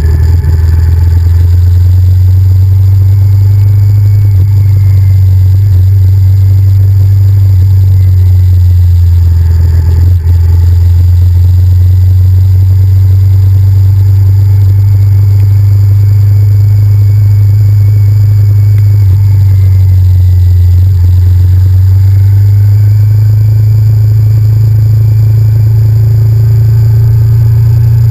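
Honda VTR1000F's V-twin engine running steadily under way, heard loud and low through the helmet or bike-mounted camera; its note dips briefly around ten seconds in and rises about twenty-three seconds in.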